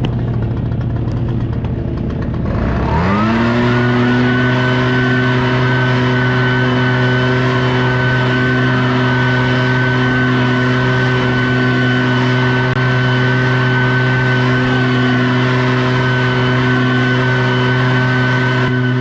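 Gas leaf blower idling, then throttled up about three seconds in, its pitch rising quickly to full speed and holding steady while it blows grass clippings off a driveway.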